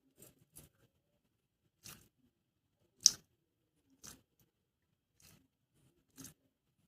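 Short crinkly scrunches from hands handling squishy toys, about one a second, the loudest about three seconds in.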